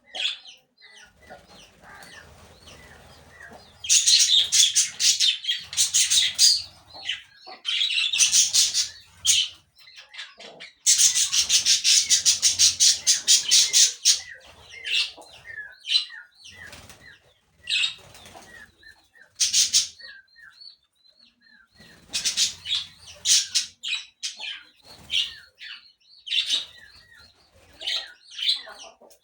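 Birds flapping their wings in several bursts of a few seconds each, fast evenly repeated wingbeats, with short chirps in between.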